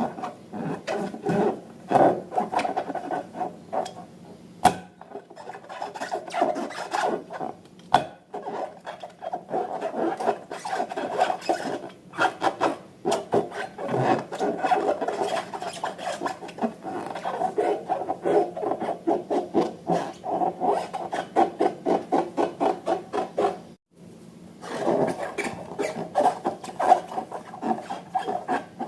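Slime being worked by hand, a continuous run of rapid wet crackling and squelching clicks, with a brief pause about three-quarters of the way through.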